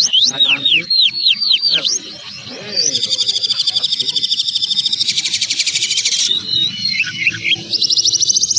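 Fast, harsh songbird mastering song: a quick series of sweeping whistled notes, then a dense, rapid high trill and varied chirps, with another fast trill rising near the end.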